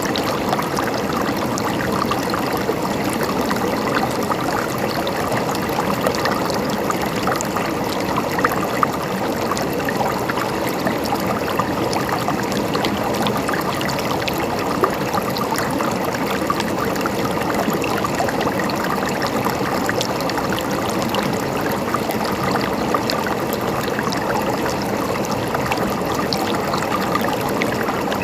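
River water flowing steadily, a continuous rush with small splashes and gurgles throughout.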